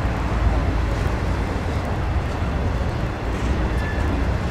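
Norfolk Southern freight cars rolling past close by: a steady noise of steel wheels running on the rails.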